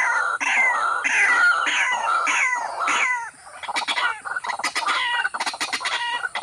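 Birds calling: a run of repeated downward-sliding calls, about two a second, then after about three seconds a faster series of short, sharp chirps.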